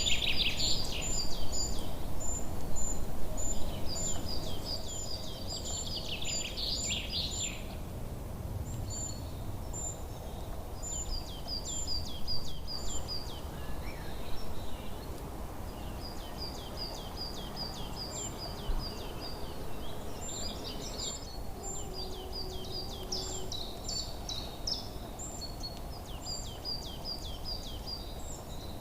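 Small birds calling in quick series of short, high chirps, several sometimes overlapping, busiest and loudest in the first several seconds, over a steady low background rumble.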